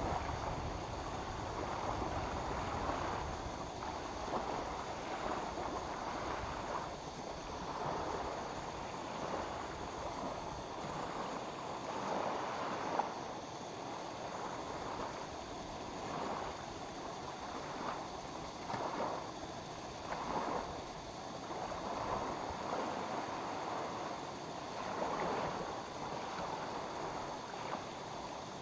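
Small lake waves lapping at the shore, a continuous wash of water that swells and eases every couple of seconds.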